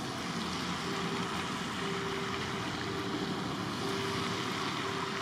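A train approaching at a distance: a steady rushing noise with a hum that comes and goes about once a second.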